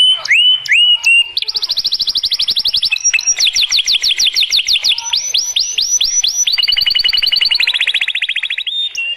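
Domestic canary singing loudly in a long run of rapid trills: strings of quickly repeated falling notes, switching to a new trill at a different speed every couple of seconds.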